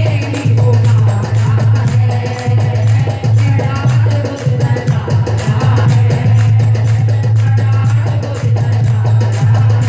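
Devotional bhajan music: a sung melody over a steady beat of hand percussion, with a loud steady low drone underneath.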